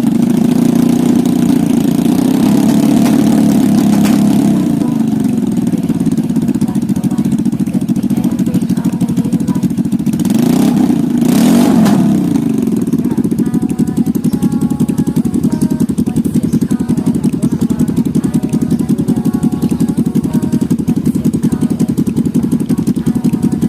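Small engine running at a steady idle, revved up and back down twice: over the first few seconds and again about ten seconds in.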